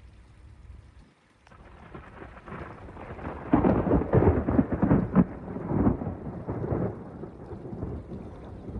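Thunder from a supercell thunderstorm: a rumble builds about a second and a half in, peaks in a loud crackling stretch through the middle, then rolls off and fades.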